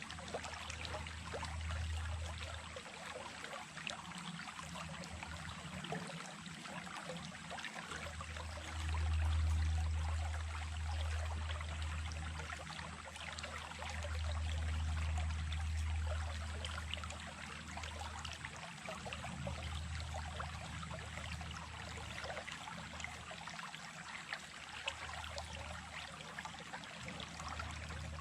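Running water of a small stream, a steady rushing and trickling, with a low rumble underneath that swells and fades several times, loudest about nine seconds in and again around fifteen seconds.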